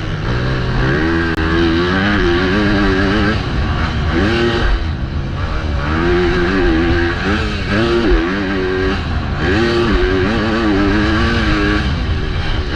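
MX2 motocross bike engine racing under hard throttle, its pitch rising and falling again and again as the rider opens and closes the throttle, with short drops off the throttle about four and a half and nine seconds in.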